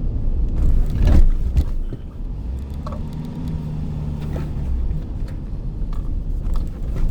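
Low, steady rumble of a car on the road, with a few short knocks and a louder swell about a second in.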